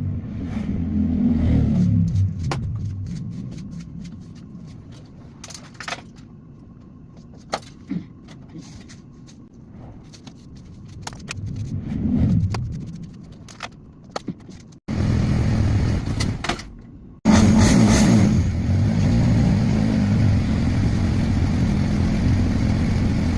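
Motorcycle engine running, loud at first, then a quieter stretch with scattered sharp metallic clicks and clinks. After abrupt cuts about fifteen and seventeen seconds in, the engine runs steadily and loudly.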